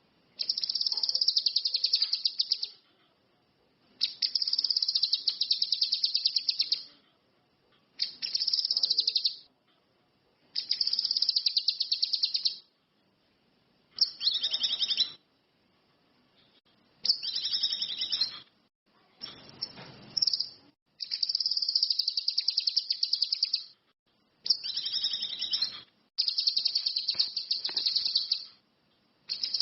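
Cucak kinoi (ranti mas) bird calling in repeated bouts of a fast, high-pitched chattering trill. Each bout lasts one to three seconds, with short pauses between.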